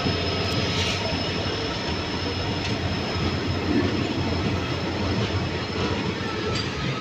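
Train running on the rails: a steady rumble and rush of noise with a thin high-pitched squeal held over it, the squeal dropping slightly in pitch near the end, and a few faint clicks.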